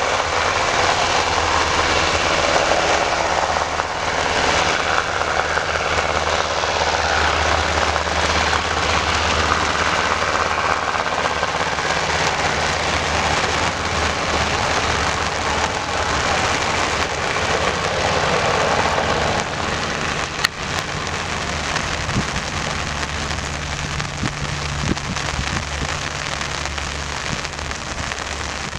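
UH-60 Black Hawk helicopter running steadily: a low engine and rotor hum under an even, loud hiss.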